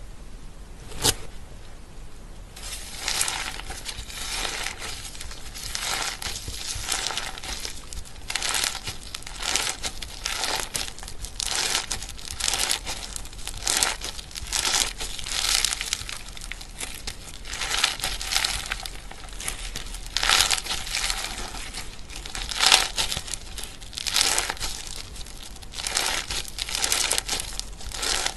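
Slime being squeezed and stretched by hand, giving a dense, irregular run of crackling and popping, with one sharp click about a second in.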